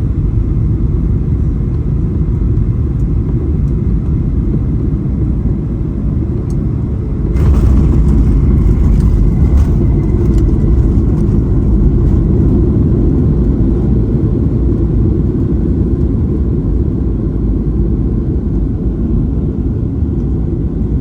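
Steady low rumble inside the cabin of a Boeing 737-800. About seven seconds in it swells louder, with a rush of higher-pitched noise that fades away over the next few seconds.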